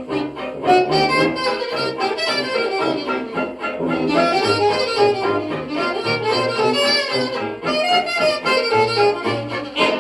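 Instrumental chorus of a 1920s-style hot jazz dance band record, with horns over a pulsing bass line, played back from a home-cut 10-inch Lexan disc.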